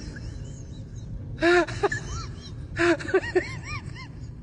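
Cat meowing in short calls, each rising and falling in pitch: one about a second and a half in, then a quick run of several short meows around three seconds in.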